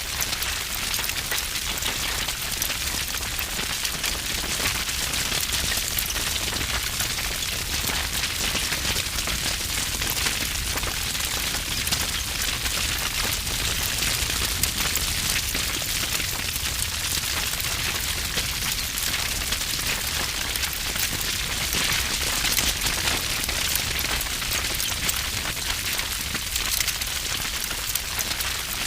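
Wood fire burning with dense, continuous crackling and popping.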